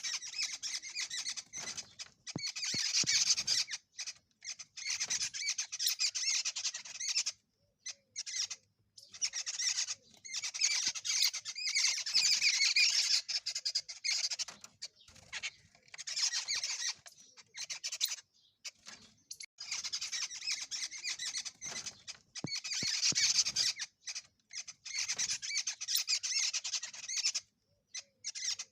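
Bird calling in dense, high-pitched chatter, in bursts of one to three seconds with short silent breaks between them.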